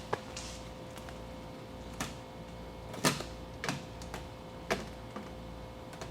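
Irregular sharp clicks and light knocks from hand work with tools and deadener sheet on a truck door, about seven in all and the loudest about three seconds in, over a faint steady hum.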